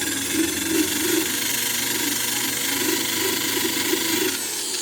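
Angle grinder with a wire wheel running steadily, brushing weld spatter off the steel of a homemade hatchet. It is switched off near the end, and its whine falls as it begins to spin down.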